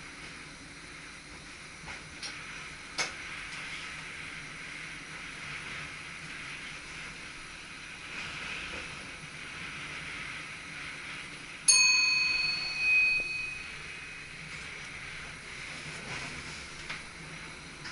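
Steady hum inside an SGM Sprinter electric train's cab, with a small click a few seconds in. About two-thirds of the way through, a single bell-like ding rings out loudly and dies away over a second or two.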